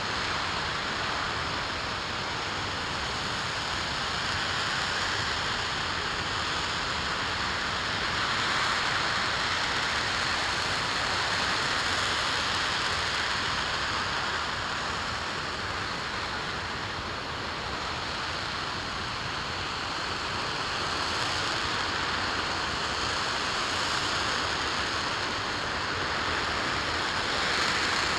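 RS-25 liquid-hydrogen and liquid-oxygen rocket engine firing steadily on a test stand: a dense, even rushing noise with slow, gentle swells in loudness.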